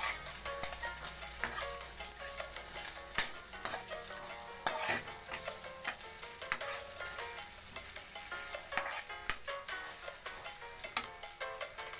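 Sliced hotdogs sizzling in hot oil in a steel wok, stirred with a metal spatula that scrapes and clicks against the pan many times.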